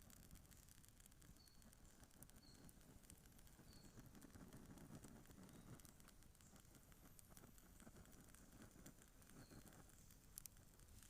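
Faint campfire crackling, with scattered small pops and ticks. A bird gives four short high chirps, three in the first four seconds and one near the end.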